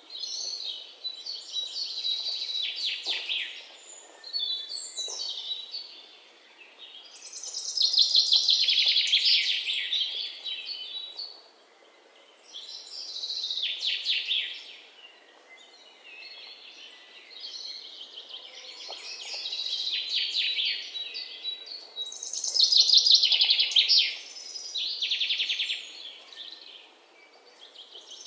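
Songbird singing: a series of high, rapid trilled phrases, each one to two seconds long, repeated every few seconds with short pauses between them, over faint outdoor background noise.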